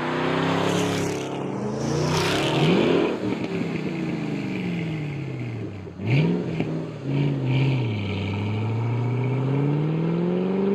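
Supercharged 5.8-litre V8 car engine and exhaust revving, its pitch climbing and falling several times with a quick blip about six seconds in, then climbing steadily toward the end.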